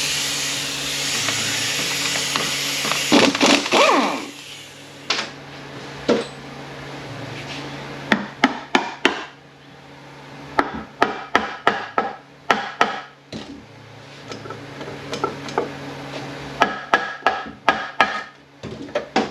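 Wrench and ratchet work on the bolts of an automatic transmission's aluminium case. It opens with a few seconds of steady rushing noise and a short metallic ring, then goes into clusters of sharp metal clicks and clinks.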